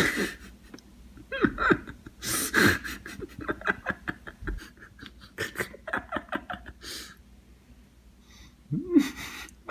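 A person laughing and breathing hard in short bursts, with a loud sudden sound at the very start.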